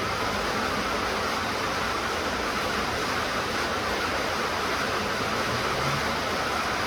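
Steady rain falling, an even, unbroken hiss. A faint low hum comes in briefly near the end.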